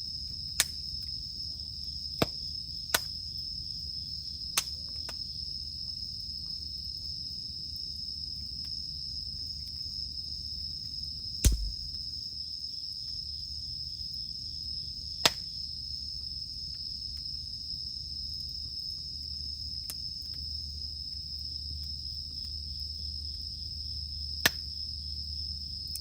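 Wood fire in a campfire popping with sharp, separate snaps, about eight in all, the loudest a little before halfway, over a steady high drone of cicadas.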